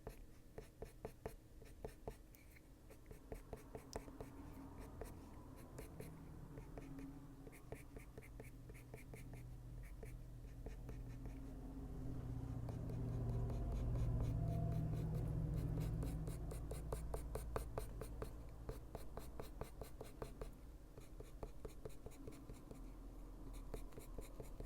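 Coloured pencil (Caran d'Ache Luminance) scratching on paper in many quick, short strokes, laying down tiny lines to darken the bird's feathers. A low hum swells and fades in the middle.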